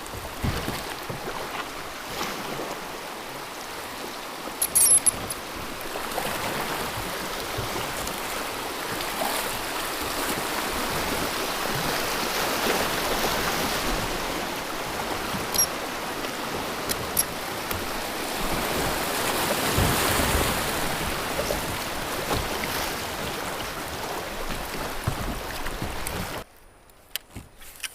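Steady rush of a flowing, rain-swollen river, with a few sharp clicks or knocks; it cuts off suddenly near the end.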